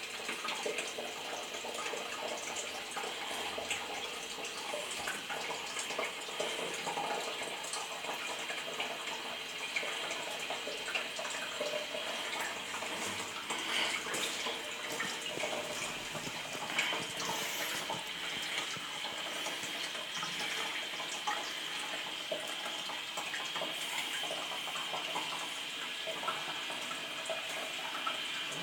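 Water running steadily in a toilet, an even hiss with no break or change in level.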